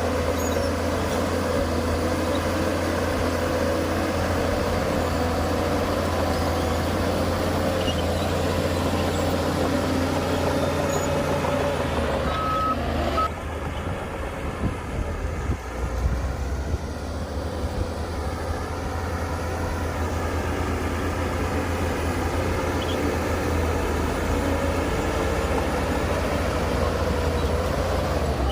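Diesel engines of heavy earthmoving machinery, a bulldozer and dump trucks, running steadily with a deep drone. Two short high beeps come just before the middle, then a few seconds of irregular knocks as the engine note drops, before it picks up again.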